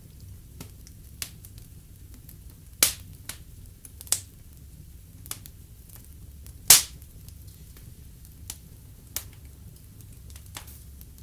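Wood fire in a fireplace crackling: scattered sharp pops at irregular moments, two louder ones about three seconds and about seven seconds in, over a low steady rumble of the flames.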